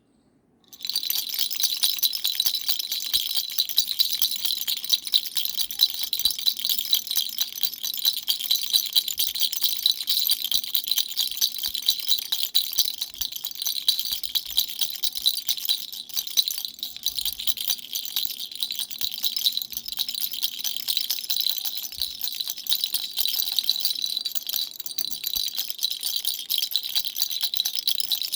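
A baby's dumbbell-shaped toy rattle shaken continuously, a steady bright jingling with no pauses.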